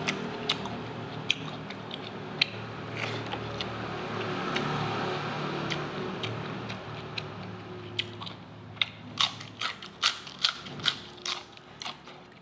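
A person chewing a mouthful of food: a run of sharp, wet crunching and smacking clicks that come thicker after about eight seconds, over a low steady hum.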